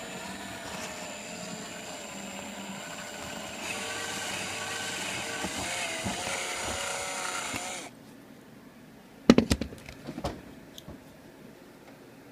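Electric drill running a 3/32 bit into the metal air holes of a Tugboat RDA atomizer, its whine wavering in pitch as it cuts. It gets louder about four seconds in and stops abruptly near eight seconds, followed by a few sharp knocks.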